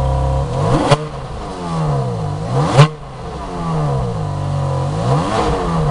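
A supercar engine at idle, revved three times in quick blips, the pitch shooting up and falling back to idle after each; the second rev is the highest and loudest.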